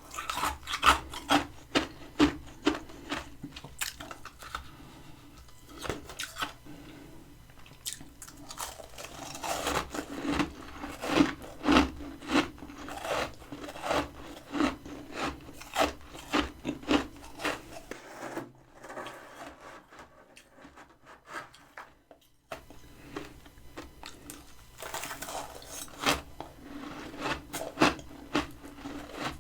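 Freezer frost being crunched: a rapid run of sharp, crisp crackles that pauses now and then and goes quiet for a few seconds about two-thirds through.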